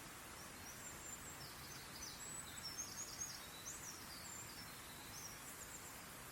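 A songbird singing a quick, twittering run of high chirps and short whistles for several seconds, faint over a steady hiss of outdoor background noise.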